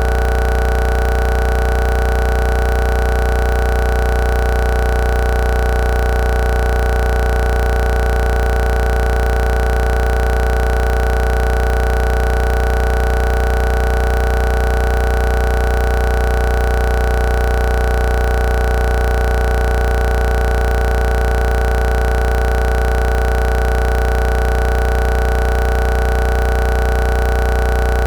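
A loud, steady hum of several held tones with a deep low drone beneath, unchanging throughout, with no bangs or crackles.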